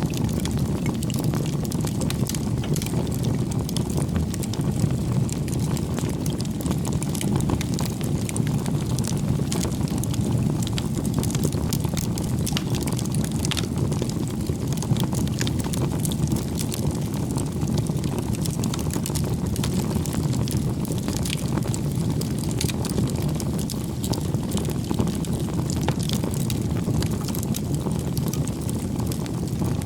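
Wood campfire burning steadily: a low, even rumble of flames with frequent small crackles and pops from the burning wood.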